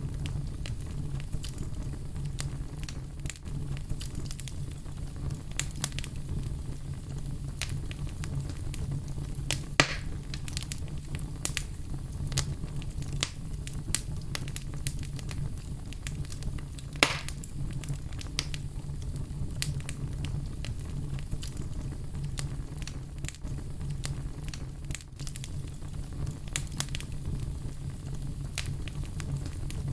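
Fire crackling: scattered pops and snaps over a steady low rumble, with two louder pops about ten and seventeen seconds in.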